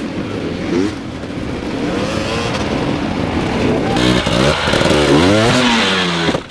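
Dirt bike engine revving up and down over and over. About four seconds in it turns harsher and noisier.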